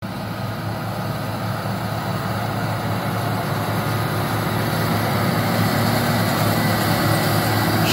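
Vehicle engine running steadily under a broad noise, slowly growing louder.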